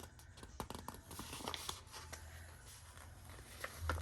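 Faint rustling and light scattered taps of paper sticker pieces being handled and pressed onto a planner page.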